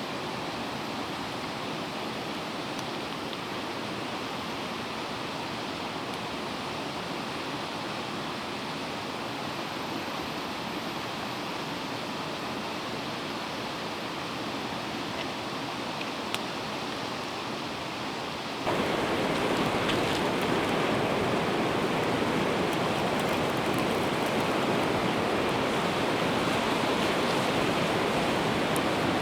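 Steady rushing of a flowing river, which turns abruptly louder about two-thirds of the way through.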